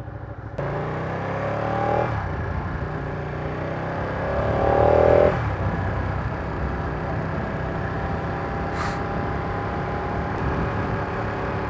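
Ducati Panigale 959's Superquadro L-twin engine accelerating: revs rise twice and are cut off sharply at each gear change, about two and five seconds in, then it runs at a steady cruise.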